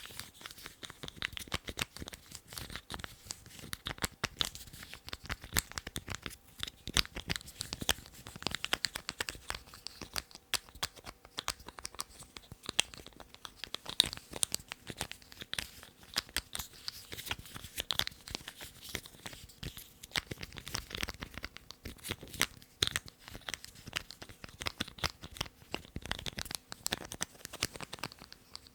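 Lids being handled, giving a dense, irregular run of sharp clicks and scratchy crinkling.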